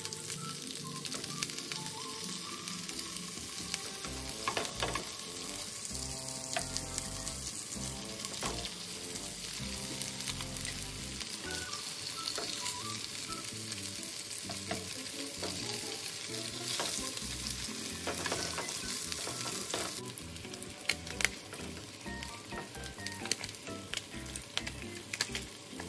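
Slices of Spam frying in hot oil in a frying pan: a steady, dense sizzle and crackle, with occasional sharper pops.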